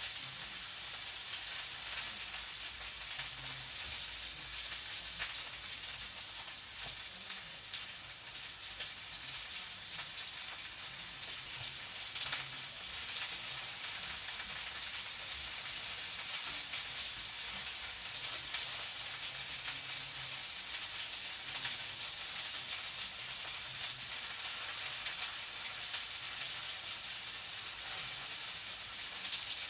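Food frying in a pan: a steady sizzling hiss full of fine crackles, with a low hum coming and going underneath.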